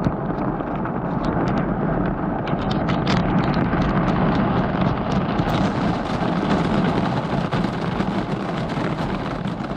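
Heavy storm rain with gusting wind buffeting the microphone: a loud, dense, steady noise that starts abruptly, with many sharp ticks of raindrops hitting close by during the first half.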